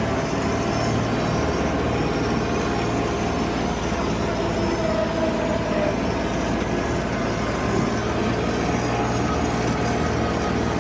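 Tractor engine running steadily, a continuous low drone with no change in speed.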